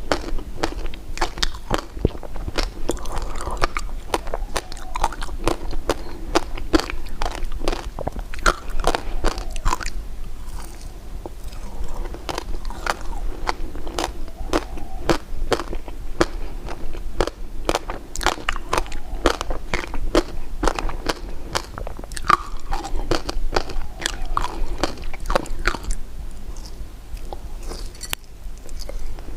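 Close-miked eating of crunchy candy: many quick, sharp crunches and bites with chewing in between.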